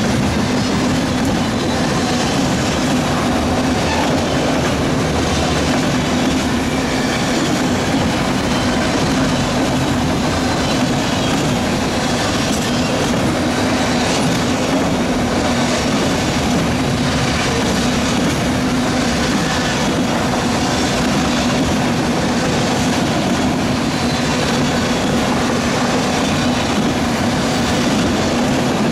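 Freight train's autorack cars rolling past close by: steel wheels running on the rails with a steady rumble, a steady low hum and faint, evenly spaced clicks of wheels passing over rail joints.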